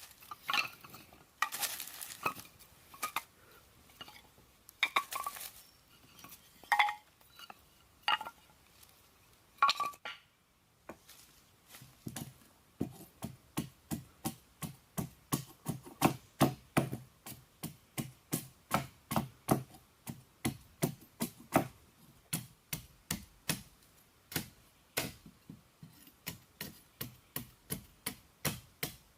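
Kitchenware clinking and knocking with short ringing tones for the first ten seconds or so. Then a knife chopping steadily on a cutting board, about two strokes a second.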